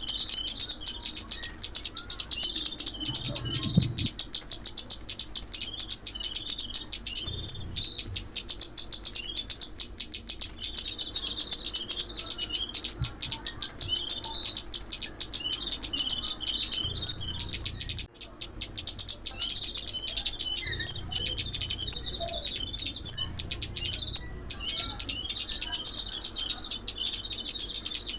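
Recorded lure song of the chim ốc mít, a small songbird: fast, high-pitched chirping and twittering without pause, with a thin steady high note running under it for long stretches.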